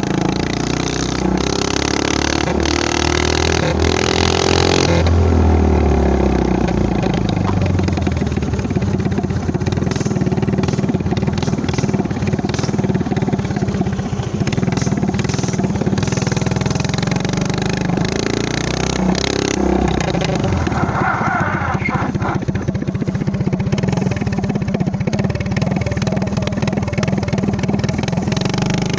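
Motovox minibike's Predator 212 single-cylinder four-stroke engine with a trumpet exhaust, running under way. Its pitch climbs over the first few seconds as it revs up, then drops back and holds fairly steady with small rises and falls.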